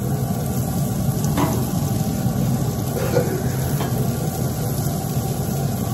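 Sliced onions sizzling in butter on a hot Lodge cast-iron griddle: a steady frying hiss over a low, steady hum.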